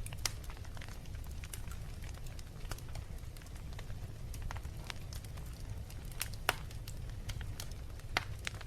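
Wood fire burning in a fireplace: a steady low rumble of the flames with irregular sharp crackles and pops, the loudest a little after the start, about two thirds of the way in and near the end.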